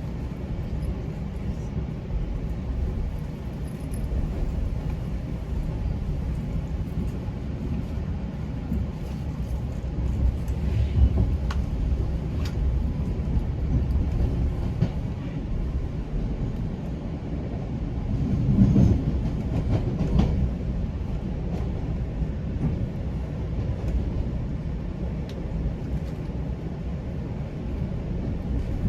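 GO Transit bilevel train rolling along the track: a steady rumble of wheels on rail with a few faint clicks, swelling louder twice, about a third and two thirds of the way through.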